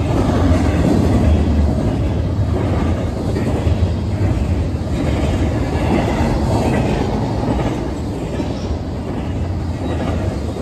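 Double-stack intermodal freight train's well cars rolling past at speed: a steady, loud rumble and rattle of steel wheels on rail, easing slightly near the end.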